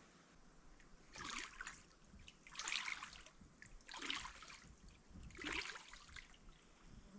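Water splashing in four separate bursts, about a second and a half apart.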